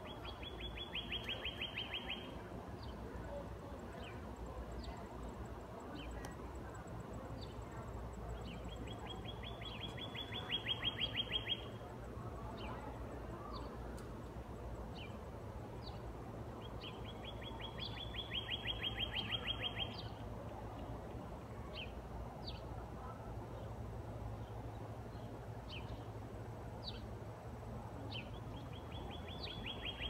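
A bird's trill: a fast run of identical notes lasting about two seconds, repeated every eight to nine seconds. It comes over scattered short chirps and a steady low background hum.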